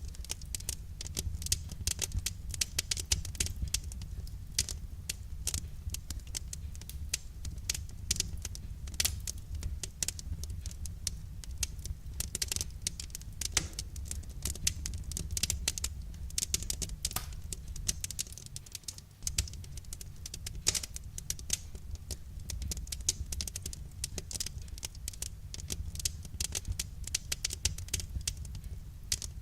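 Wood fire crackling: dense, irregular small pops and snaps of burning firewood over a steady low rumble.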